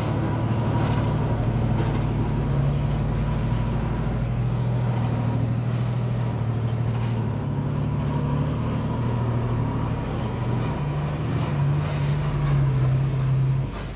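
Diesel engine of heavy earthmoving equipment running steadily, its low pitch rising and falling a little with load. The level drops suddenly just before the end.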